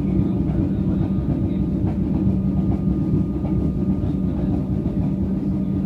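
Metro train running, a steady low rumble with a constant hum under it.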